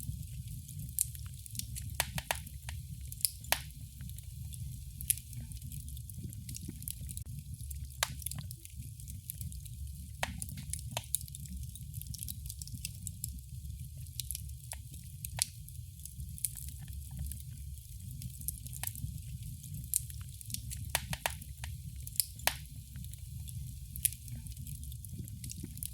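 Wood fire crackling in a fireplace: irregular sharp pops and snaps, a few a second, over a steady low rumble and a faint hiss.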